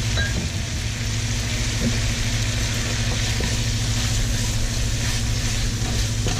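Braised pork leg stir-fry sizzling in a pan with dark soy sauce just added, over a steady low mechanical hum.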